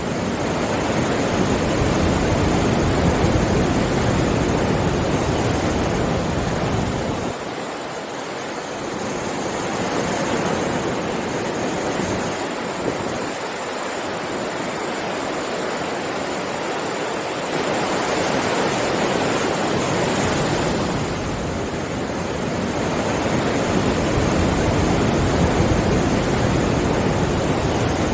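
Ocean waves breaking and washing on a shore, a continuous surf rush that swells and ebbs every several seconds.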